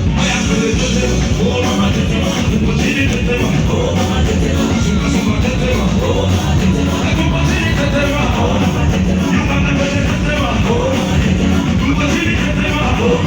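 Loud live band music with singing, played through a concert sound system during a sound check.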